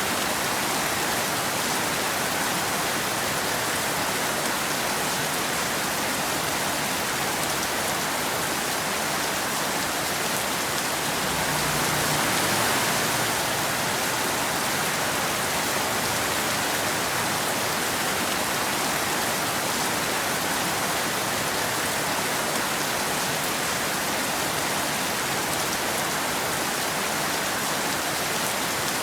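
Steady rain falling, an even hiss that swells a little about twelve seconds in.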